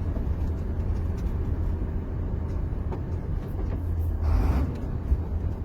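HOWO truck's diesel engine running with a steady low rumble during a downshift from seventh to sixth gear, with a brief hissing rush about four seconds in.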